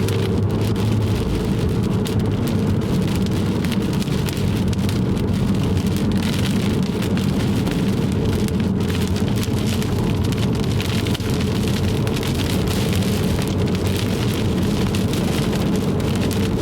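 Rain beating on the roof and windshield of a moving car, a dense steady spatter that thickens about halfway through, over the constant hum of the engine and tyres.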